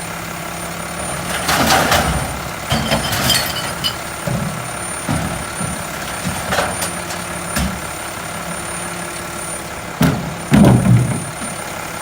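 Mack LEU recycling truck's engine idling with a steady hum while recyclables are loaded into its hopper: a series of clattering knocks and thumps, the loudest about ten seconds in.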